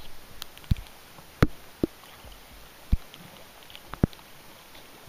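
Rain on a sea kayak: about five sharp, irregularly spaced taps of raindrops striking close to the microphone, with many smaller high ticks over a faint steady hiss of rain on the lake.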